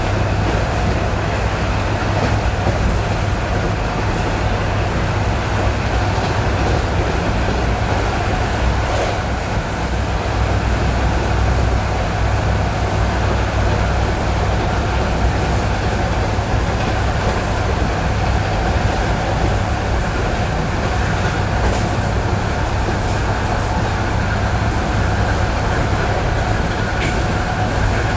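ED9E electric multiple unit running at steady speed, heard from inside the carriage: a continuous rolling rumble with a steady hum from the running gear.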